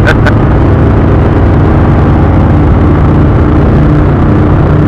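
Indian V-twin cruiser motorcycle engine running steadily at road speed, heard loud and continuous from on the bike.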